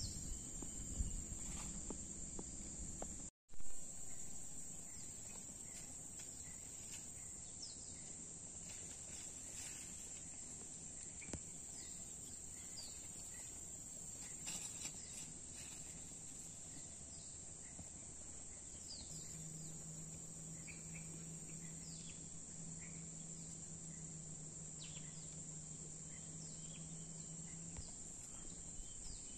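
Rural ambience dominated by a steady, high-pitched chorus of insects, with short chirps from birds scattered throughout. A low steady hum joins about two-thirds of the way through and fades out near the end.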